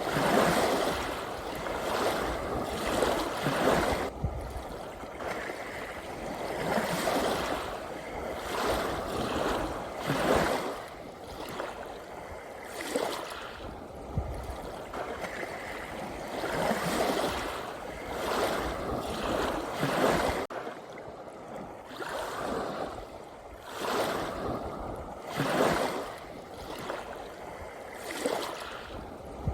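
Ocean waves washing in on the shore, a fresh surge of surf every few seconds that swells and falls back.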